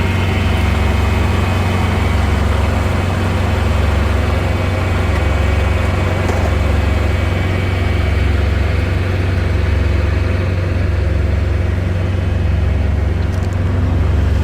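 Heavy engine idling steadily, a constant low rumble with no revving.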